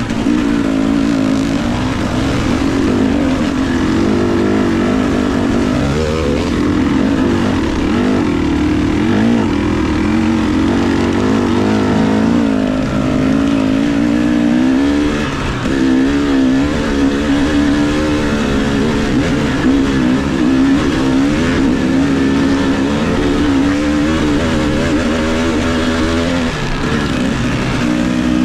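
Dirt bike engine running throughout, its revs rising and falling continually as the throttle is worked on and off.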